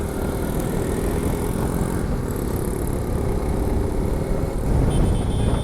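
Motorcycle riding at road speed: the engine runs steadily under a low rumble of wind and road noise on the microphone, with a brief high steady tone near the end.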